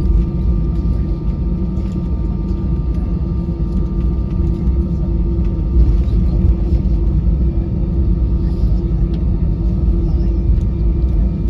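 Steady cabin rumble inside an Airbus A320-214 on the ground after landing, heard from a window seat. There is a deep, even roar with a few faint steady whines from the engines and air systems, and nothing changes from start to end.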